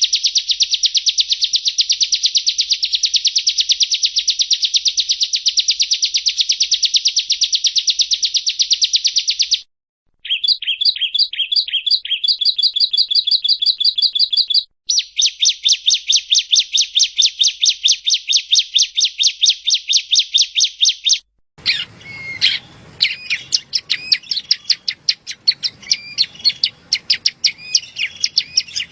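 Yellow-bellied prinia (prenjak rowo) song: long runs of rapid, high, repeated trilling notes broken by brief pauses. About two-thirds of the way in it cuts to a noisier recording of looser, varied chirps.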